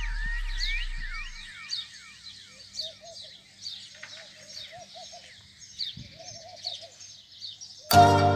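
Birds chirping: a steady stream of short, quick downward-sliding chirps, joined from a few seconds in by a lower, rapid chattering call. Background music fades out at the start and comes back in loudly near the end.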